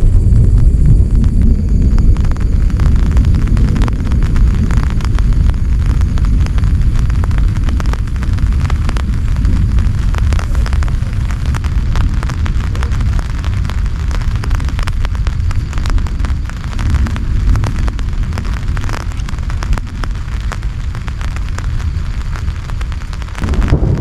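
Heavy rain, a dense patter of drops striking close to the microphone over a deep, steady rumble.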